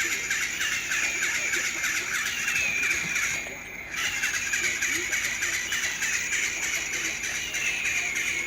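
Birds chirping and twittering continuously, with a short falling call repeating about every second to second and a half. The sound drops out briefly about three and a half seconds in.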